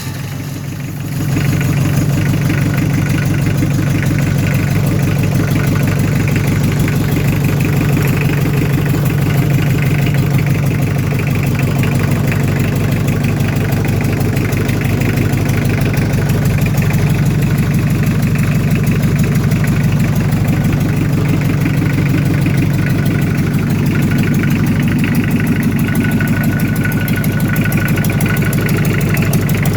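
Toyota 2C 2.0-litre four-cylinder diesel engine, just started, picking up about a second in and then idling steadily.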